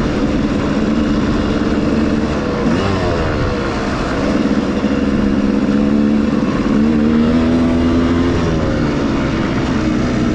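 Enduro motorcycle engine running under way, its pitch dipping and rising again a few times as the throttle changes.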